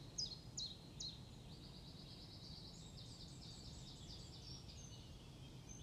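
Faint songbirds singing: short high notes, each dropping in pitch, repeated about twice a second for the first second, then a faster high twittering from about a second and a half in.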